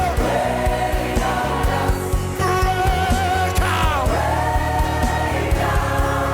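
Worship song: voices singing long held notes that slide between pitches, over a band with a steady drum beat.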